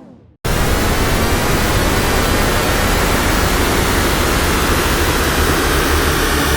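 Tone2 Icarus 3 software synthesizer playing a noise-based effect preset: a steady, dense rushing noise like a jet engine, starting abruptly about half a second in after a short gap.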